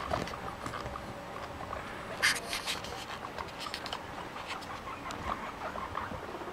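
Guinea pigs chewing cabbage: a run of crisp crunching clicks, with one louder crunch a little over two seconds in, mixed with brief faint squeaks.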